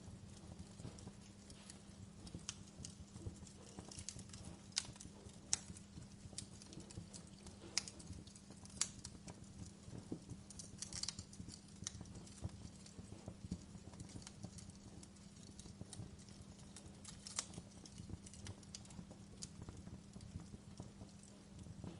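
Wood fire burning in a fireplace, crackling with irregular sharp pops, a few louder ones now and then, over a steady low hum.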